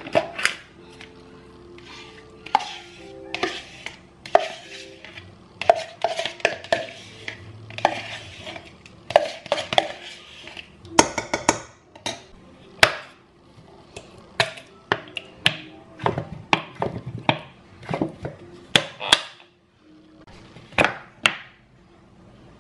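Repeated clinks and clatters of dishes and cutlery being handled, one or two knocks a second, over soft background music.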